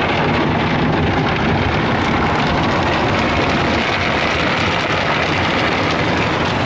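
Car wash tunnel equipment working over a truck, heard from inside the cab as a steady, loud rushing wash of water and machinery noise. The noise grows fuller in its first couple of seconds.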